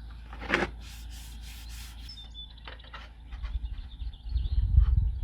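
Furniture wax being rubbed onto a surface by hand: a quick swipe about half a second in, short scrapes, then louder uneven low rubbing in the second half.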